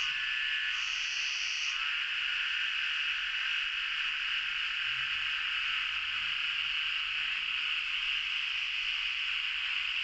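Cicadas droning in a steady, shrill summer chorus, with a second, pulsing insect call over it in the first couple of seconds.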